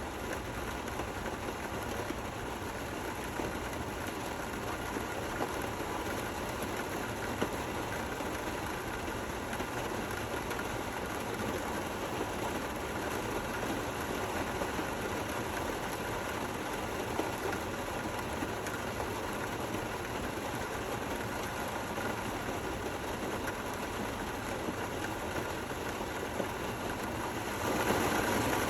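Steady rain falling: an even hiss with scattered faint drop ticks, growing louder about a second before the end.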